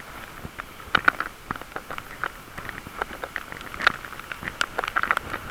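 Bicycle riding along with an irregular run of short metallic squeaks and ticks, a metal-against-metal squeal from the bike. The rider finds it an annoying squeal and wants the bike shop to look at it.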